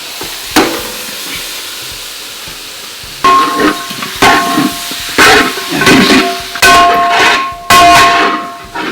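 Onion and spice masala sizzling steadily in hot oil, then from about three seconds in a run of loud metal clanks and scrapes, each ringing with the same tone, as the chicken is added to the pan.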